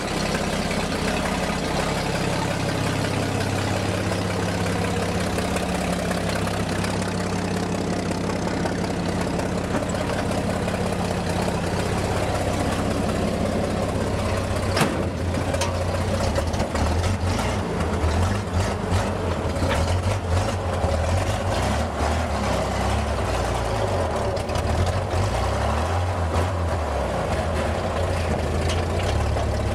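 Old Chevy truck's engine running. Its pitch holds steady at first, then turns lower and uneven from about halfway through. The owner calls the engine a little cold-blooded, as most old Chevys are.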